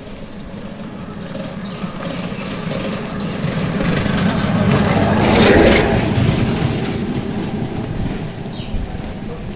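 A vehicle passing close by on a brick road: it grows louder, peaks a little past halfway through, then fades away. A few short bird chirps sound over it.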